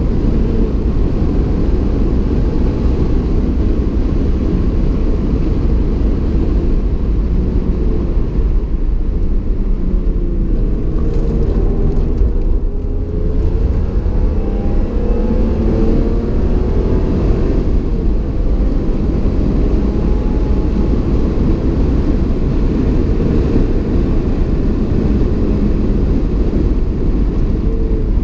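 Muffled in-cabin sound of a stock 1994 BMW M3 E36 driven hard on a race circuit: its 3.0-litre straight-six running under load under heavy road and wind noise. The engine pitch rises and falls several times around the middle.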